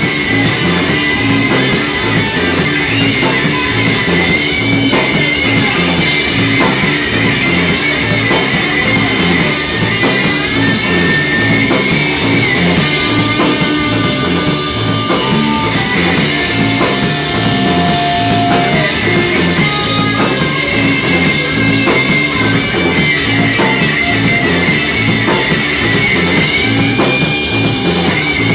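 Live rock band playing an instrumental passage: drums and bass keep a steady beat under a lead electric guitar playing sustained notes that bend up and down.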